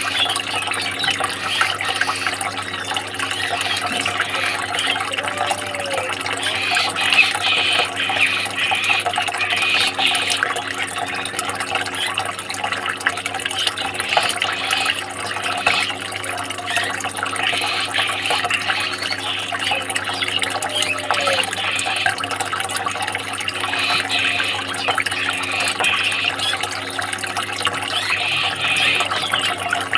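Running water, trickling and splashing steadily, with a constant low hum underneath.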